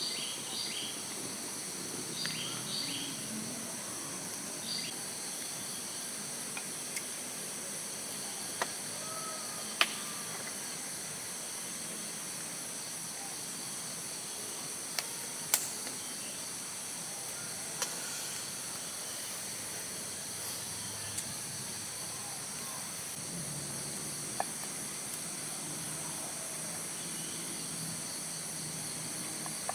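Steady high-pitched insect chorus in a forest, with a few short bird chirps in the first few seconds and several sharp clicks or knocks scattered through.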